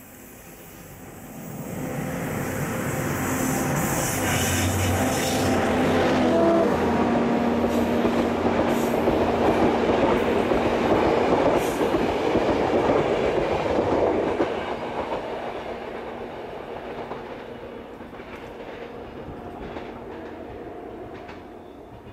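Passenger train approaching and passing close by. It builds from a steady low hum to the loud noise of wheels on the rails as the coaches go past, then fades away after about fourteen seconds.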